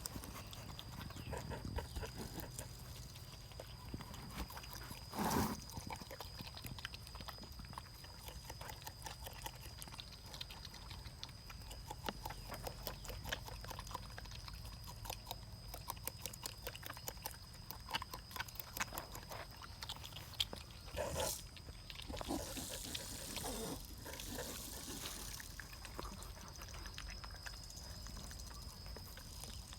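Porcupines chewing pieces of mango: a run of small wet crunching clicks, with two louder short animal sounds, about five seconds in and again about twenty-one seconds in.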